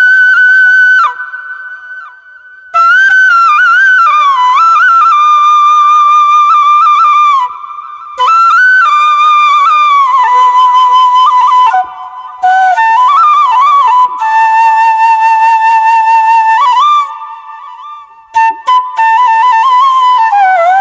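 Background music: a solo flute plays a slow, ornamented melody in phrases, with short breaks about two, eight, twelve and seventeen seconds in.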